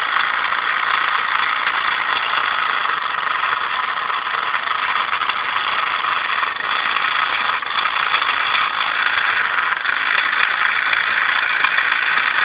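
Paraffin-fired model steam engine running steadily, a continuous even hiss and whirr.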